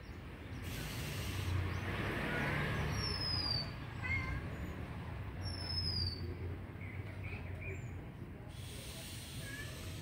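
A small bird's short, high, thin whistle that falls in pitch, heard three times a couple of seconds apart, over steady outdoor background noise.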